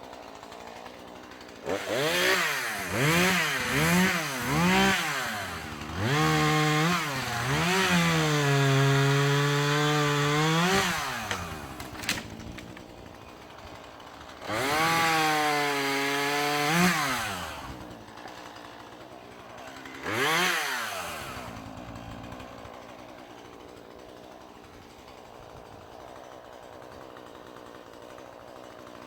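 Husqvarna 440e two-stroke chainsaw revving up and down between idle: four quick revs, a few seconds held at high revs, another long rev and a short one, then settling to a steady idle.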